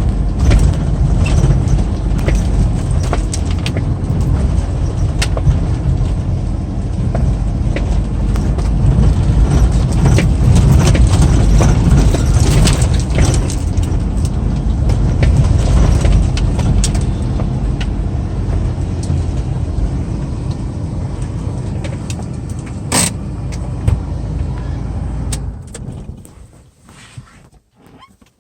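Road and engine noise heard inside a moving car: a steady low rumble with scattered small rattles and clicks, with one sharp click near the end. The rumble dies away over the last few seconds as the car stops.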